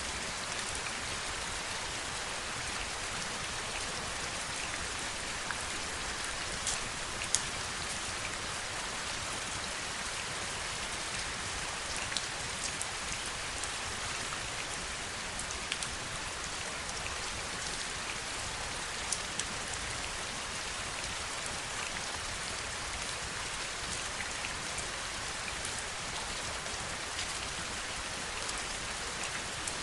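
Heavy rain falling steadily, a dense even hiss with occasional sharper individual drop hits standing out, the loudest about seven seconds in.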